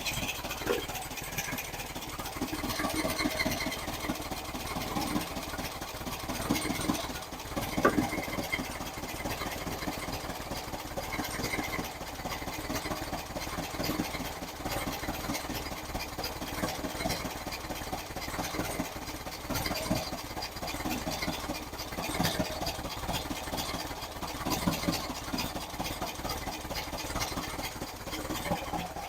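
Engine idling steadily during the break-in of its new camshaft, with one sharper knock about eight seconds in.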